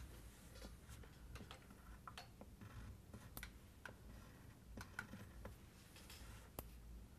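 Faint drawing strokes on paper, broken up by irregular light ticks and taps as lines are drawn and darkened.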